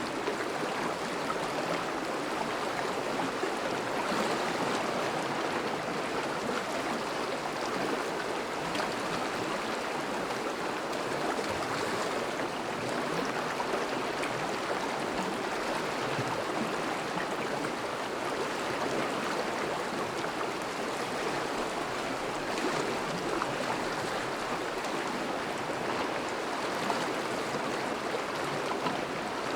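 A thawing river's water flowing steadily: a constant, even rush of moving water.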